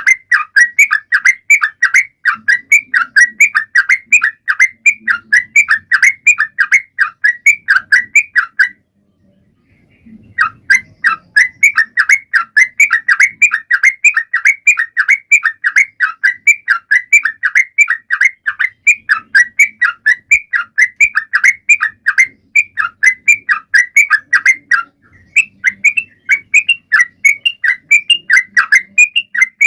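Yellow-vented bulbul (trucukan) singing a fast run of repeated bubbly notes, several a second, loud and close. The song breaks off for about a second and a half around nine seconds in and pauses briefly again near the end.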